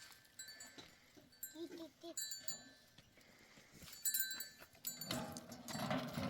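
Livestock bells clinking, with a few short bleats about one and a half seconds in. A louder scuffling noise starts about five seconds in.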